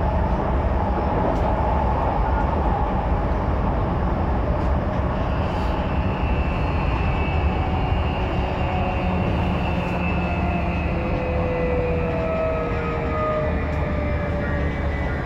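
Odakyu 5000-series electric train heard from inside a motor car: steady rumble of wheels on rail with the whine of the inverter and traction motors, its several tones slowly falling in pitch as the train slows.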